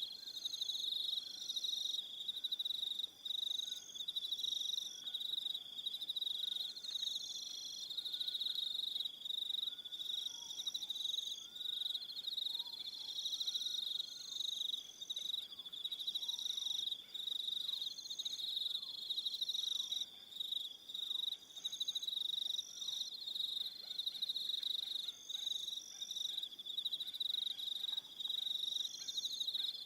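Evening chorus of crickets: many insects trilling together in a dense, unbroken high-pitched band, with higher chirps repeating in short bursts over it.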